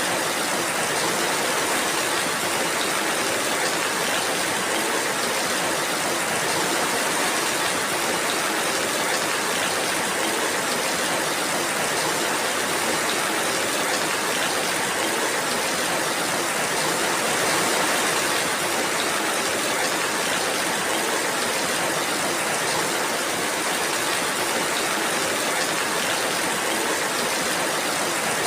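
Steady rainfall, an even hiss that holds the same level without a break.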